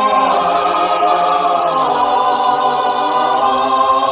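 Choir music holding long sustained chords, changing chord about halfway through.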